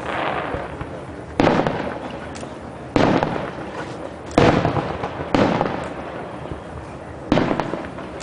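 Fireworks display shells bursting overhead: five loud bangs one to two seconds apart, each fading away in a rolling echo.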